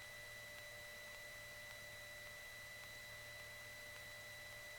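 Faint, steady electrical hiss and hum on the Cessna 152's headset intercom audio feed, with a few thin steady whine tones and no engine sound coming through.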